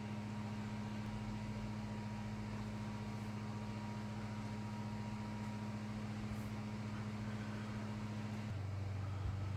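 Steady low machine hum, its tone shifting slightly near the end.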